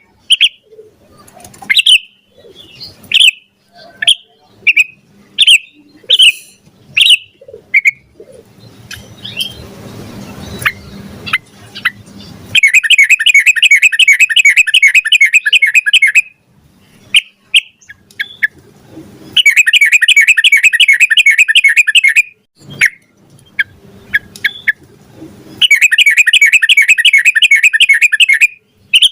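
Yellow-vented bulbul (trucukan) singing: a string of short chirping calls, then three long, rapid rolling trills of about three seconds each, the long rapid song that keepers call ropel panjang.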